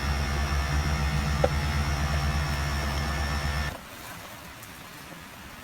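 Small Hyundai car engine idling steadily, then switched off and stopping abruptly about three and a half seconds in.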